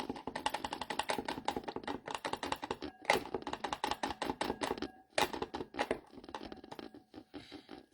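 Typing on a computer keyboard: a fast run of key clicks, several a second, with short pauses about three and five seconds in.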